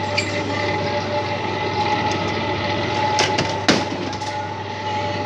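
Steady mechanical hum with a high whine over it, broken by two sharp knocks a little after three seconds in.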